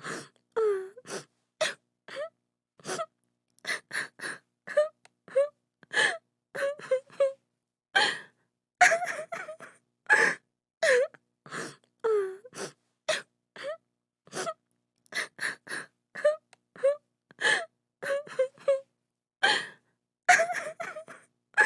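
A woman crying and sobbing in short broken bursts: gasping breaths between wailing sobs, many of them falling in pitch, with brief silences between.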